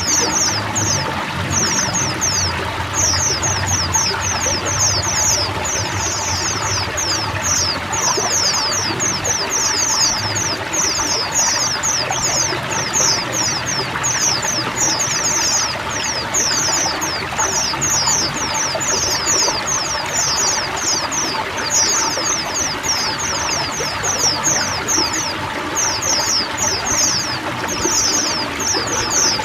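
A flock of white-eyes chattering in fast runs of short, high, down-slurred chirps over steady pouring, trickling water.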